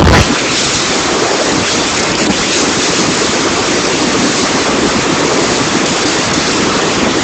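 Typhoon rain and wind: a loud, steady hiss of heavy rain, with a brief low buffet of wind on the microphone at the very start.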